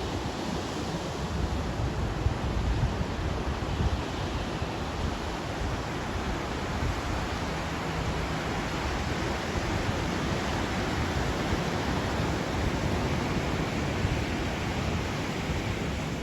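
Pacific Ocean surf breaking and washing on the beach as a steady roar, with wind rumbling on the microphone.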